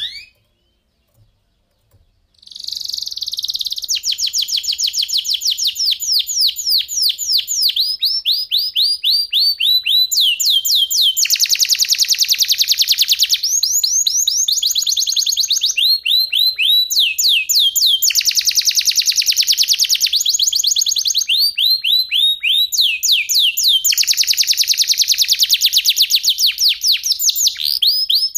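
Domestic canary (kenari) singing a long, loud, unbroken song: quick series of repeated downward-sweeping notes alternating with dense, rapid rolls, starting about two and a half seconds in after a single short chirp.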